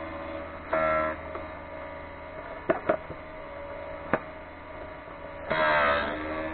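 Electric drill-bit sharpener's motor running with a steady hum, and a shrill grinding whine when the drill bit is pressed against the grinding wheel, briefly about a second in and again for under a second near the end. In between there are a few sharp clicks.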